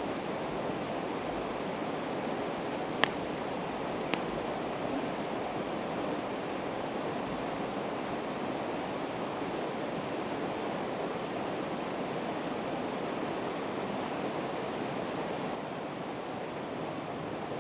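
Steady rush of a river running with a campfire of split evergreen wood burning, which gives a sharp pop about three seconds in and a smaller one about a second later. A short high chirp repeats a dozen or so times, a little under two a second, for several seconds.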